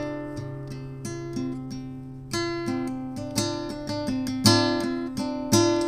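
Acoustic guitar strumming chords, each strum ringing out and fading before the next.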